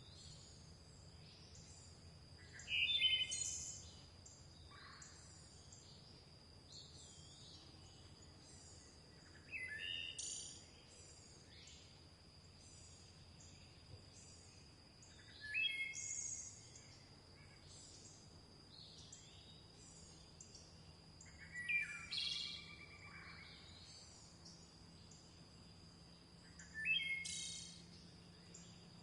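Birdsong: one bird sings a short phrase of quick notes five times, about every five to six seconds, over constant faint high chirping from other birds and a steady high-pitched whine.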